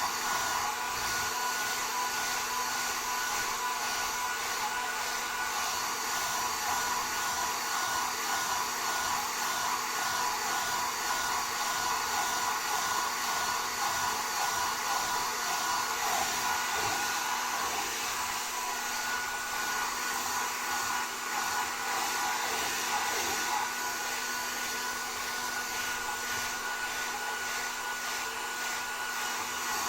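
Hand-held hair dryers blowing steadily while hair is dried, a continuous rushing air noise with a steady high whine.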